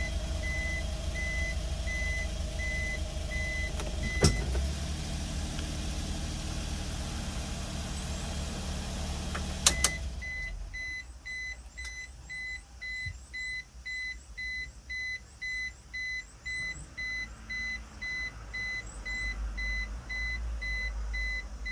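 Nissan NT100 Clipper truck's 660 cc three-cylinder engine running, with its reversing beeper sounding steady beeps. After a click about four seconds in, the beeping stops and the engine runs on alone. Two clicks just before ten seconds are followed by the engine noise dropping away and a steady beeping starting again.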